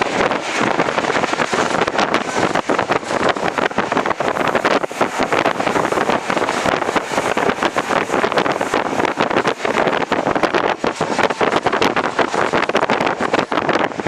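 Wind rushing over the microphone aboard a moving passenger train, over a steady rumble with irregular rattles and knocks from the coach running on the track.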